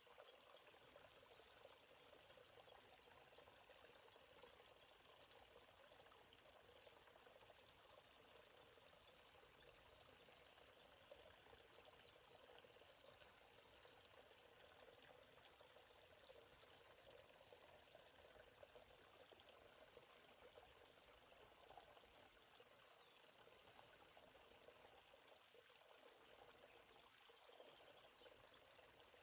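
Steady, high-pitched chorus of insects, with a faint trickling stream underneath.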